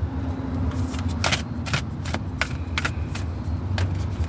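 Tarot cards being shuffled, with about half a dozen sharp, irregular snaps of the cards, over a steady low hum.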